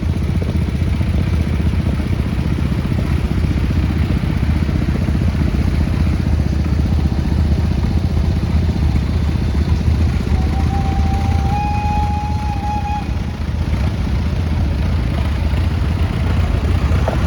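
Farm tractor engines running steadily as tractors pass in a parade, a deep continuous rumble. About ten seconds in, a thin high tone sounds for about three seconds, stepping up slightly in pitch partway through.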